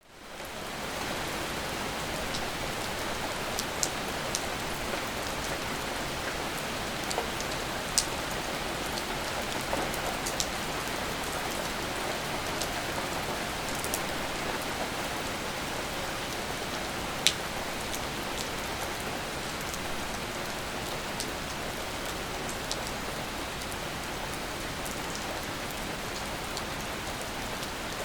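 Steady rain falling, fading in over the first second, with scattered louder drips ticking sharply now and then.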